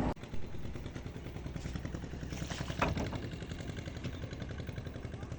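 An engine running steadily at idle, a low pulsing drone, with a brief sharp knock a little under three seconds in.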